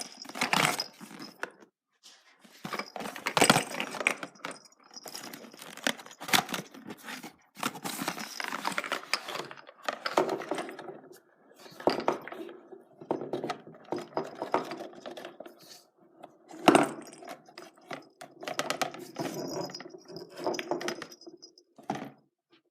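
Foil-wrapped surprise eggs being handled and unwrapped: irregular crinkling and rustling with sharp clicks and small knocks, in uneven flurries.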